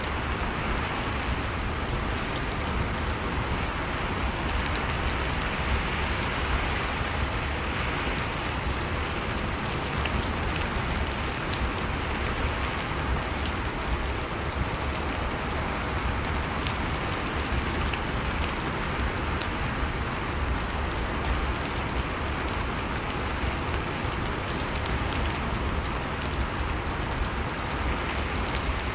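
Steady rain falling, with scattered faint drip ticks.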